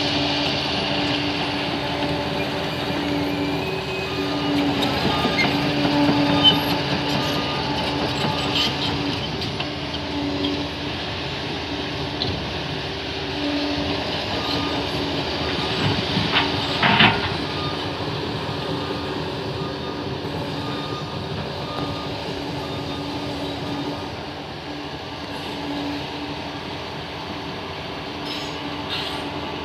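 Crawler bulldozer working, its diesel engine running with a steady drone and its tracks and blade grinding. A couple of sharp knocks come around two-thirds of the way through.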